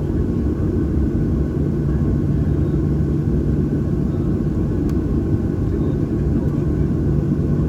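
Steady low rumble and hum of a Boeing 737-800's CFM56-7B jet engines running, heard inside the passenger cabin from a window seat behind the wing, with no change in pitch. A single faint click sounds about five seconds in.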